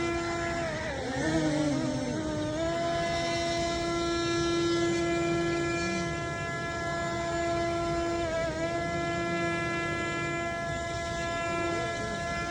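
Small practice drone's motors and propellers whining at a steady hover pitch. The pitch dips and wavers about one to two and a half seconds in, and again briefly near eight and a half seconds, as the throttle changes.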